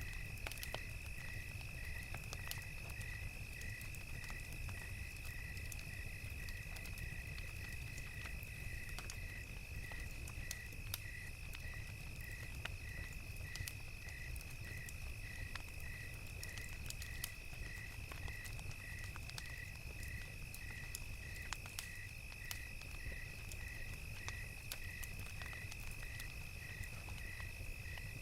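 Crickets chirping in an even rhythm of about two chirps a second over a continuous high insect trill. A wood fire crackles with scattered pops over a low steady rumble.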